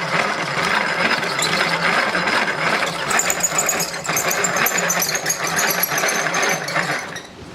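A power drill spinning a square wood strip through a dowel maker's cutter head, the blade shaving it round: a steady motor run with a dense cutting rasp and a high whine, stopping suddenly about seven seconds in. The drill is at high speed with a slow feed, which gives a clean cut.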